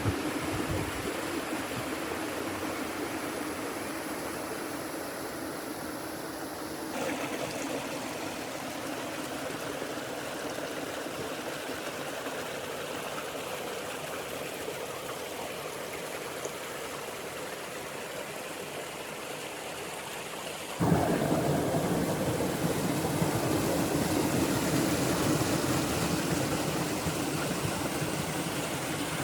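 Water rushing and splashing steadily through a miniature model dam. The sound changes abruptly twice and is louder for the last third.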